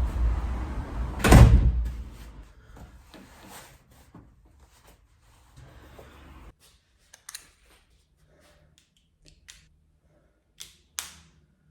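A loud knock about a second in, then scattered light clicks and knocks, like a door or cupboard and small objects being handled.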